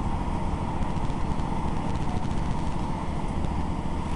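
Passenger train running along the line, heard from inside the carriage: a steady, dense rumble of wheels on track, with a constant whine above it.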